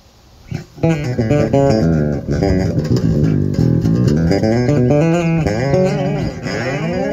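Early-1990s USA Peavey Cyrus electric bass played on its rear pickup alone with every control at 10: a riff of plucked notes starting about a second in, with a sliding note near the end.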